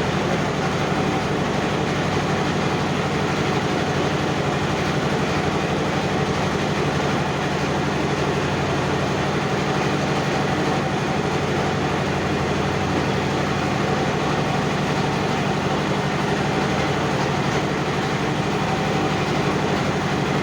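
Motor boat's engine running steadily under way, a continuous low drone with noise over it.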